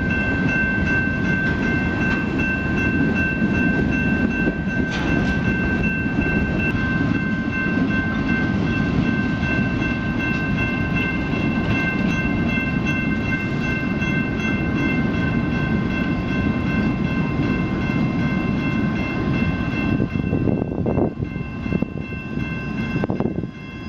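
Freight train cars rolling past a grade crossing: a continuous rumble of steel wheels on the rails, with several steady high tones ringing over it. The rumble dips and breaks up in the last few seconds as the end of the train goes by.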